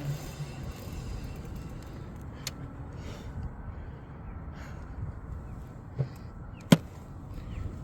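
Low, steady rumble of riding an e-bike, tyre and wind noise on the microphone, with a few sharp clicks: a small knock about six seconds in and a louder, sharp click shortly after.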